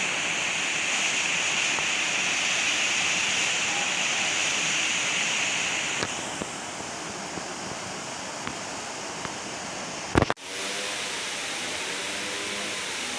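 Steady rushing of water in the forest, with a high steady hiss over it that drops off about six seconds in. A sharp click and a brief dropout come about ten seconds in.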